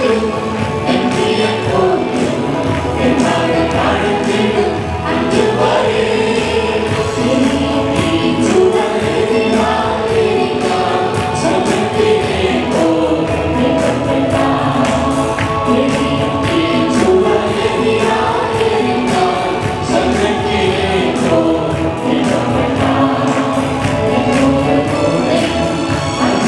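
Group of voices singing a gospel worship song over instrumental backing with percussion.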